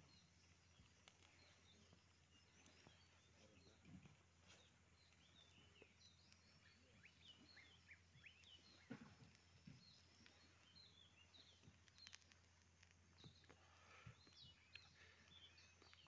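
Very faint birdsong: many short chirps and twitters, busiest from the middle on, over a low steady hum with a few faint clicks.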